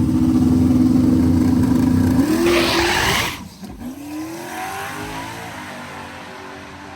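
A full-size drag-racing truck's engine held at steady high revs, then launching about two seconds in with a loud burst and pulling away down the track, fading into the distance.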